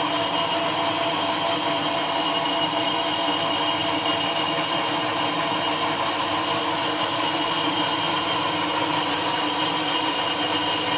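An engine-block machining machine, a cylinder boring or honing machine, running steadily with a constant whine made of several even tones over a hiss of cutting noise.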